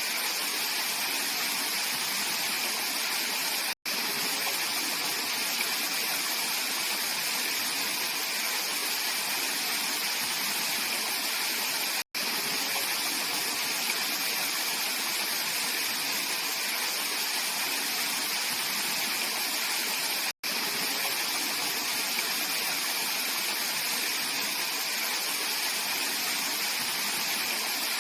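Mountain valley stream flowing: a steady, even rush of clear water. The sound cuts out for an instant three times, about every eight seconds.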